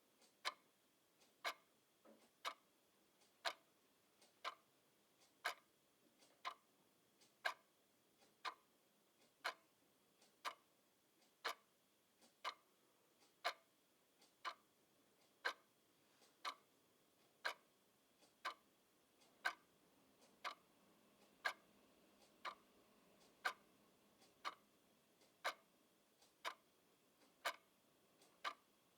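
Clock ticking steadily, about one short tick a second, with near-quiet gaps between the ticks.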